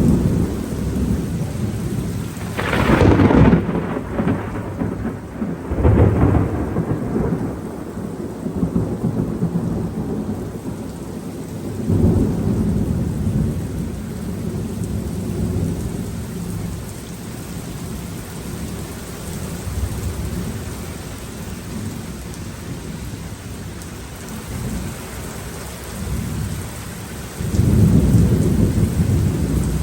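Thunderstorm: steady rain with thunder. A sharp, close crack comes about three seconds in and another about six seconds in, followed by rolling rumbles. A loud low rumble begins near the end.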